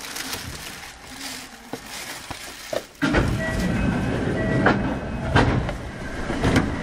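Running sound of a Kintetsu 5800-series electric train heard from inside the car. A low rumble for about three seconds, then the noise jumps suddenly much louder, with sharp clicks of the wheels over the rails and brief whining tones.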